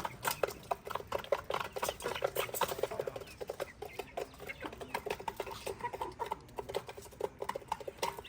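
Newly hatched chicks pecking at feed: a fast, irregular run of light taps, several a second.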